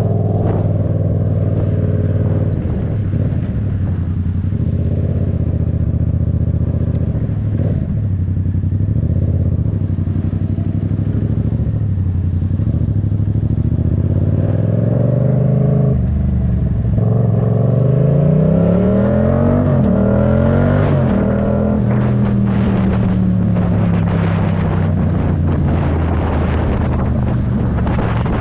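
Yamaha MT-07's 689 cc parallel-twin engine running under way. About halfway through, the revs climb several times in quick succession as it pulls up through the gears, then ease off and fall slowly.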